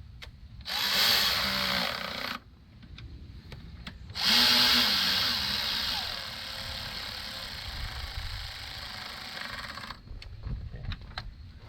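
Power drill spinning a 13 mm socket to run intake manifold bolts down until they just take tension: a short run, then a longer one that tapers off. A few light clicks of tool and socket near the end.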